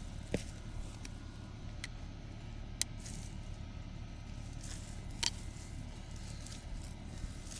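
Yard work in weeds and brush: a few sharp snaps and clicks, loudest about half a second in, near three seconds and past five seconds, with short bursts of rustling, over a steady low rumble.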